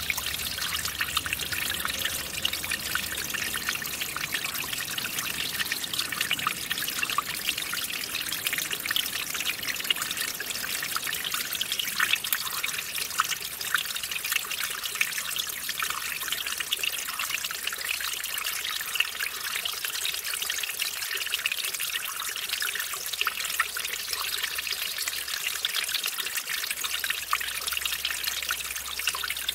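Small mountain stream trickling and splashing over a little waterfall: a steady, bright rush of running water with many small splashes.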